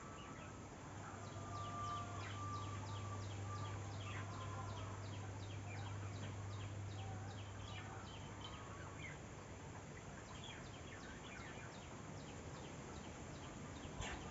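Rural outdoor ambience: scattered short bird chirps over a steady high-pitched ticking of about three a second. A low steady hum runs under it through the first part and fades out about nine seconds in.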